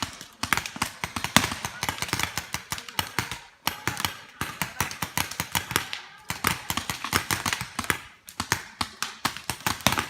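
Rapid, irregular sharp pops of paintball markers firing, several shots a second, with brief lulls.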